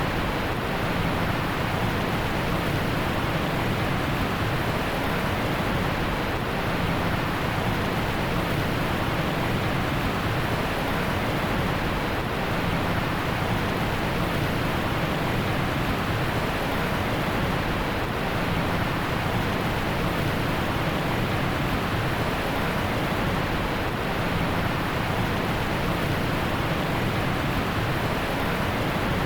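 Steady heavy rain, an even dense hiss with no separate drops or other sounds standing out.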